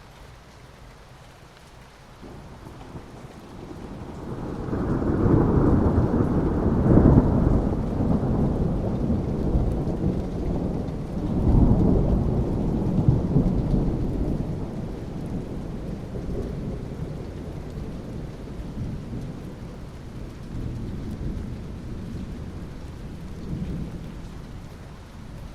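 Steady rain with a long rolling thunderclap: the low rumble builds a few seconds in, peaks twice, then slowly fades back under the rain.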